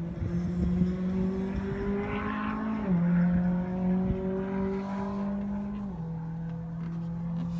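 Lamborghini Huracan LP580-2's V10 idling, its pitch creeping slowly upward and then dropping back suddenly, once about three seconds in and again about six seconds in.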